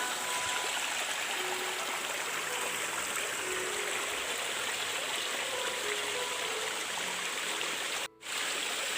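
Steady rush of flowing water from a stream or waterfall. It cuts out abruptly for a split second about eight seconds in.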